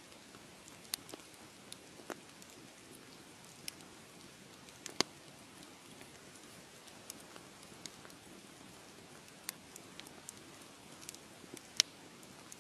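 Wood fire crackling: a soft steady hiss with scattered sharp pops and snaps, the loudest about five seconds in and again near the end.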